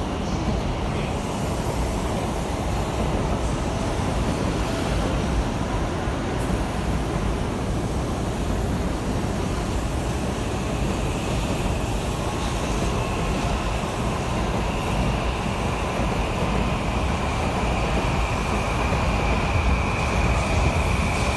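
N700A Shinkansen bullet train passing on an elevated track, a long steady rumble and rush of wheels on rail. A thin high whine comes in about halfway and grows stronger near the end.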